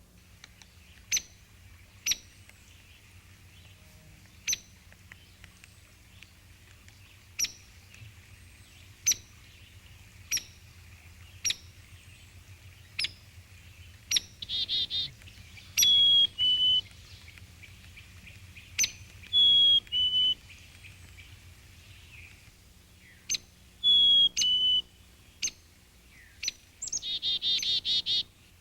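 Backyard songbirds calling: sharp chip notes about once a second, a clear two-note whistle stepping down in pitch three times, and two short harsh, buzzy calls.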